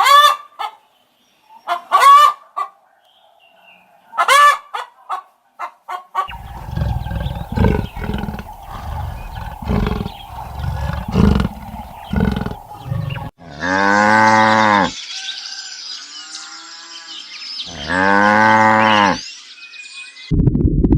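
Geese honking in short pitched calls over the first several seconds. Then comes a stretch of low, uneven thumping and noise, and two long, deep, drawn-out animal calls a few seconds apart.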